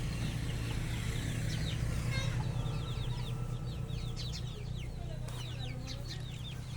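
Birds chirping: many quick, high, falling chirp notes in a steady stream, over a continuous low hum.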